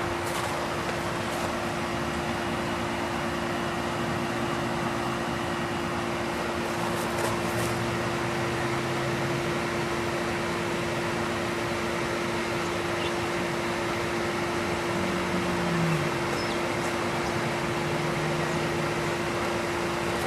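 York 'tombstone' central air conditioner from the 1960s running steadily: an even rush of air from the unit with a steady low hum under it.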